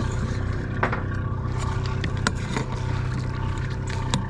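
Boat engine running steadily with a low hum, with a few sharp clicks about a second in, around two and a half seconds and near the end.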